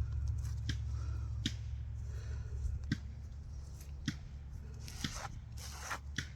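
Irregular sharp clicks and light scrapes, about one a second, over a steady low rumble: small handling noises at close range.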